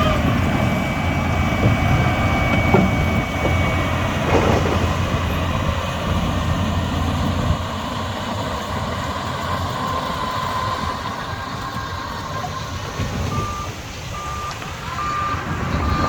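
Diesel engine of a Shantui DH17 crawler bulldozer running steadily, with a reversing alarm beeping about once a second near the end.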